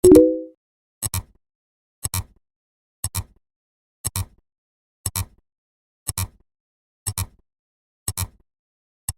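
Short double clicks, one pair about every second, nine in all, with silence between. Right at the start comes a louder, brief pitched sound of several stacked tones lasting about half a second.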